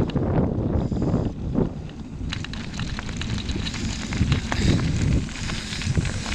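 Wind buffeting the microphone, loudest in the first two seconds, then easing, with scattered crackles and clicks.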